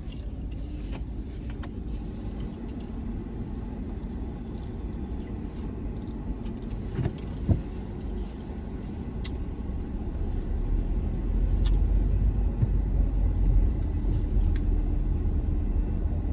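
Car interior noise: a steady low engine and road rumble that grows louder about ten seconds in, with scattered small clicks and rattles.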